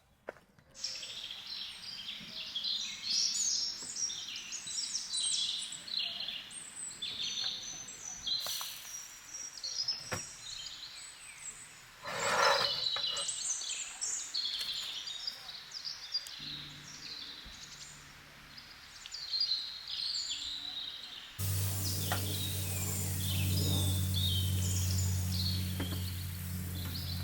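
Many songbirds chirping and singing together in a forest chorus. About 21 seconds in, a steady low hum suddenly joins them.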